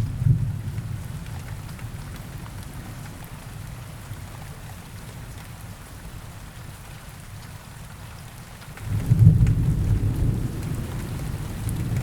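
Steady rain falling with rolling thunder. A low rumble dies away over the first seconds, and a new roll of thunder breaks in suddenly about nine seconds in and keeps rumbling.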